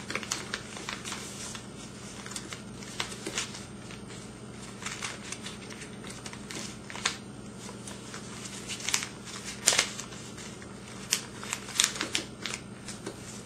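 A sheet of paper being folded and creased by hand into an origami boat: scattered rustles and crisp crinkles, with a few sharper crackles in the second half, over a steady low hum.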